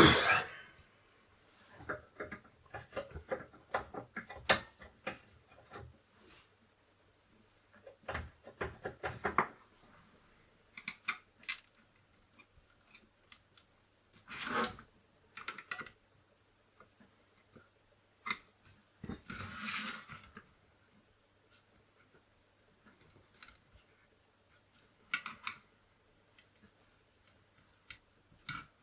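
Scattered clicks, taps and scrapes of small tools and chips being handled on a Commodore 64 motherboard while its socketed CIA chips are swapped around. A sharp knock right at the start is the loudest, with clusters of quicker clicking a few seconds in and a short scrape about two-thirds through.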